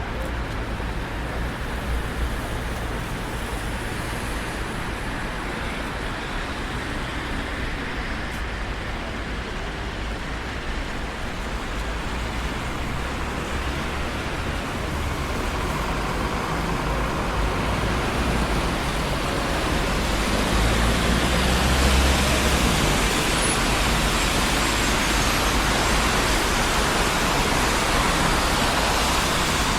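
Steady road traffic noise from a busy city street: a continuous wash of tyre and engine noise with a low rumble. It swells from about halfway through, with one heavier vehicle passing loudest a little after that.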